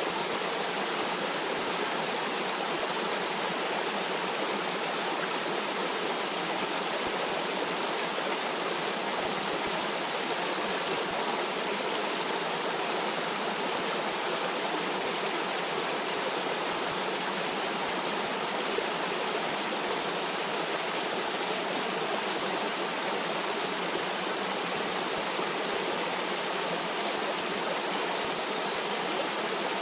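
Stream water flowing and rushing steadily over rocks, an even unbroken rush with no change.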